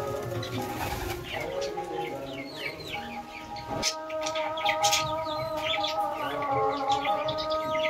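Many birds chirping in quick, short, falling calls, with pigeons cooing, over steady background music.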